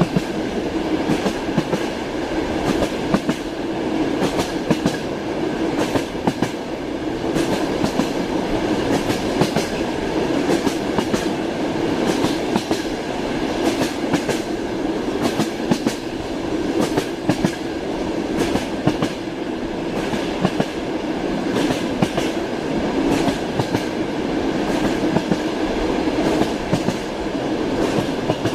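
Passenger train heard from inside a sleeper compartment while under way: a steady rolling rumble and hum, with the wheels clacking over rail joints many times, irregularly spaced.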